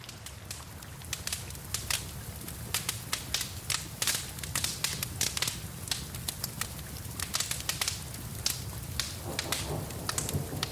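Wood fire in a fireplace crackling, with many sharp, irregular pops over a steady low rumble of the flames.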